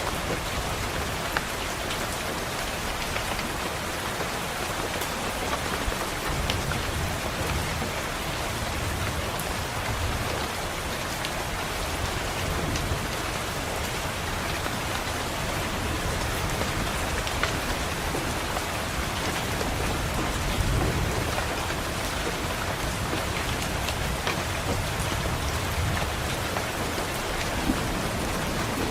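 Steady heavy rain hissing against a window, with low thunder rumbling in and out several times, strongest from about two-thirds of the way through. Scattered faint ticks sit on top of the rain.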